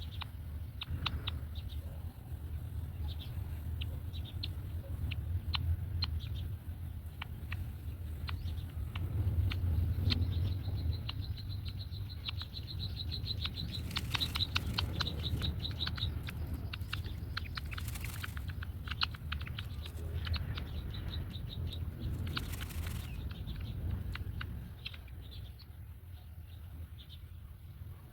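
Black-winged kites at their nest: scattered rustling and pattering as the birds move in the nest, with a fast series of high, ticking calls in the middle. A steady low rumble runs underneath.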